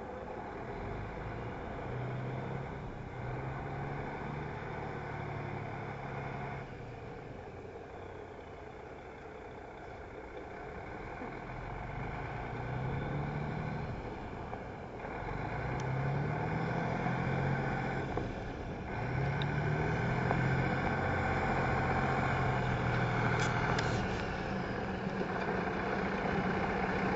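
Sterling truck tractor's diesel engine running, its pitch climbing and dropping several times, as in accelerating and letting off, then holding steady near the end.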